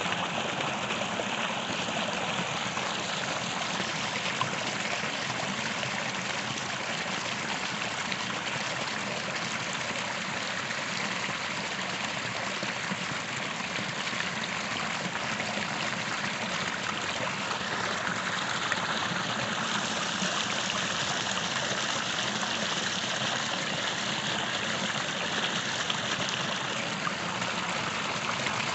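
A small creek running: a steady, unbroken rush and trickle of flowing water.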